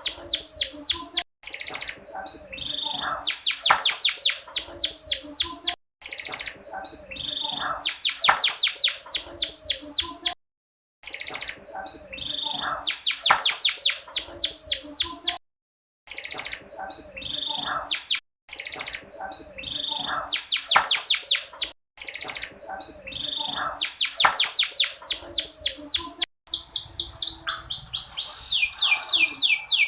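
Domestic canary singing fast trills of quick down-slurred notes, in repeated phrases broken by brief silent gaps, as if the recording is looped. A lure recording, which the uploader calls a female canary's, meant to get reluctant male canaries singing.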